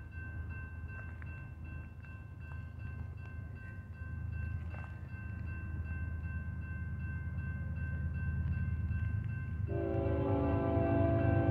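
Approaching diesel freight train, led by a GE ES44DC locomotive: a low rumble growing steadily louder. Near the end the locomotive's horn sounds a steady multi-note chord and holds.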